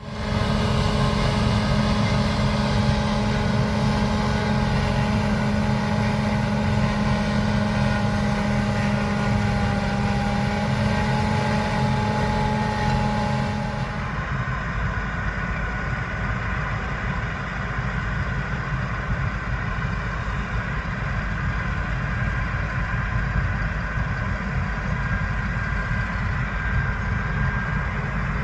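Large diesel harvest machinery, combine harvesters and tractors, running steadily in a wheat field, with a strong steady hum. About halfway through the sound changes abruptly to a lower, rougher running with the high hiss gone.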